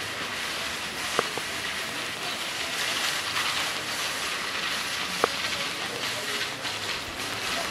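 Steady rain falling on a wet paved street, an even hiss of water, with two sharp ticks about a second in and again around five seconds.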